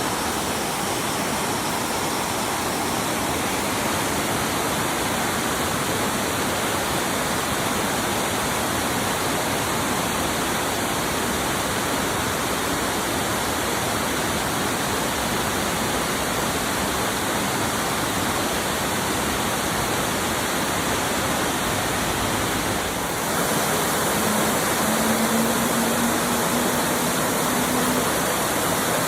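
Small waterfall rushing steadily as it drops into a creek. A faint low hum is heard for a few seconds near the end.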